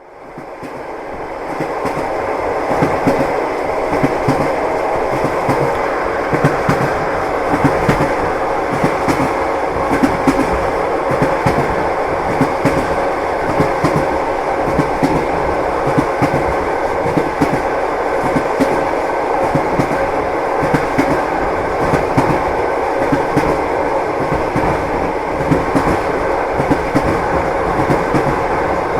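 Train wheels clacking over the rail joints as the train runs along, with a steady rumble dense with sharp clicks; the sound fades in over the first couple of seconds.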